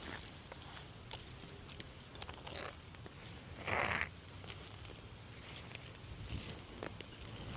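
Donkey rolling on the ground: faint scuffing and clicks, with one short breathy noise about four seconds in.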